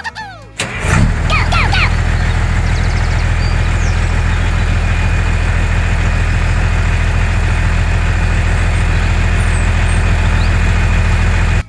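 Mini tractor's small engine running steadily, starting abruptly about a second in.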